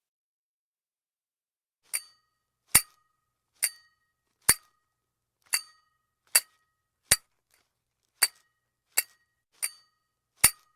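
Toy cymbal monkey clashing its small cymbals: eleven sharp clinks with a short ring, roughly one a second, starting about two seconds in.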